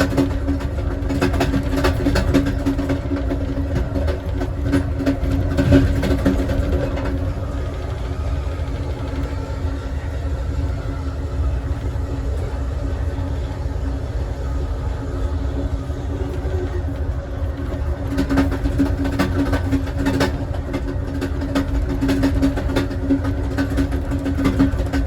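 Passenger train under way, heard from inside its last car: a steady low rumble with a constant hum and scattered sharp clicks from the wheels on the rails.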